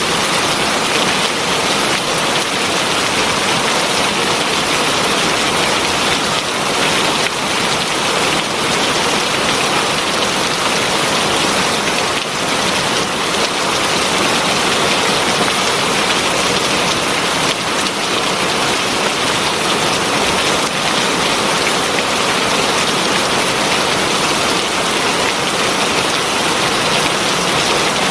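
Heavy rain falling steadily, a dense even hiss of drops hitting surfaces, with faint individual drop ticks here and there.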